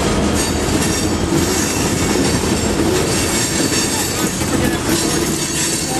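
Union Pacific freight train rolling past close by: a loud, steady rumble and rattle of wheels on rails.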